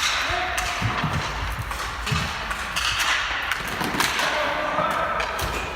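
Ball hockey play: scattered sharp knocks and thumps of sticks and ball, with short shouts from players now and then.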